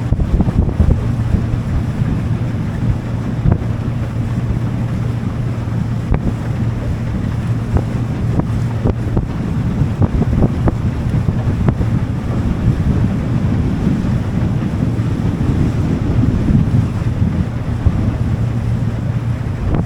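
Motorboat underway: the engine runs with a steady low drone while wind buffets the microphone and water rushes past the hull.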